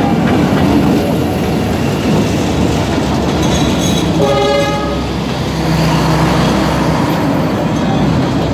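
A D19E diesel-electric locomotive running as it passes close by, then passenger coaches rolling along the track. A short horn blast sounds about four seconds in.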